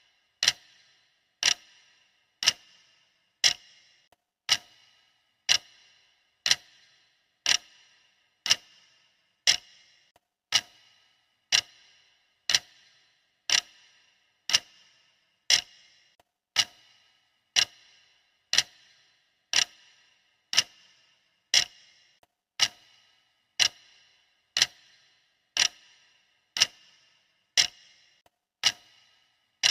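Clock ticking steadily, one crisp tick each second.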